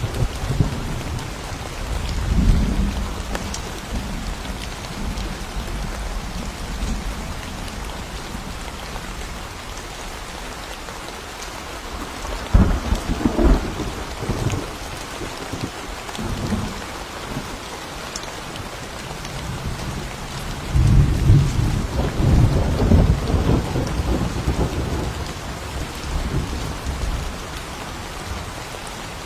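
Thunderstorm in a forest: steady rain with thunder rumbling over it three times, briefly about two seconds in, again about twelve seconds in, and longest and loudest from about twenty-one to twenty-four seconds in.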